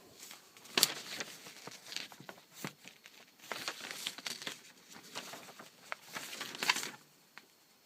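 A sheet of paper rustling and crinkling as the freshly sharpened carbon-steel blade of an Opinel No 8 knife slices through it. The strokes are irregular and scratchy and stop about seven seconds in.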